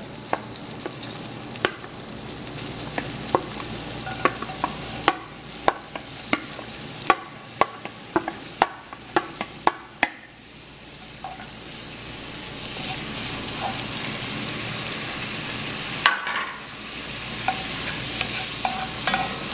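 Diced onion and grated garlic sizzling in melted butter and olive oil in a pot, with a spoon knocking and scraping against the bowl and pot many times in the first half. In the second half the sizzle is louder and steady as they are stirred.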